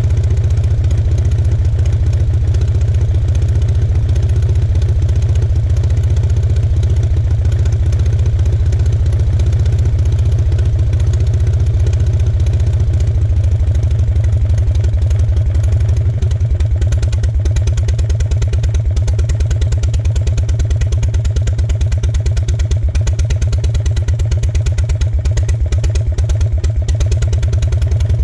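Aeronca C2's two-cylinder aero engine running steadily on a ground run with the propeller turning, a fast, even beat of firing pulses.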